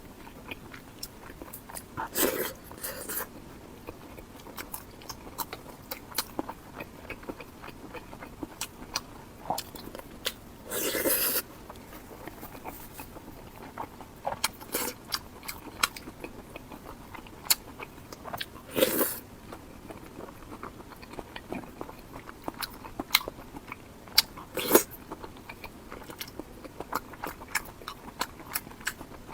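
A person eating close to the microphone: chewing and biting with wet mouth clicks and smacks, broken by a few louder noisy bites or slurps of about a second each.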